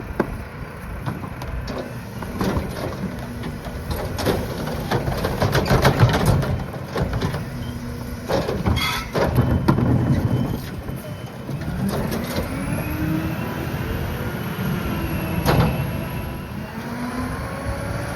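Mack rear-loader garbage truck's diesel engine running and revving while the Heil PowerTrak packer works, with repeated clanks and thumps of trash and the metal hopper, loudest about six seconds in. Near the end the engine pitch rises and falls as it revs up for the packing cycle.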